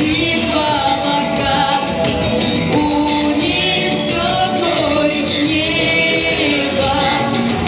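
A solo singer performing a song with instrumental accompaniment, holding long notes.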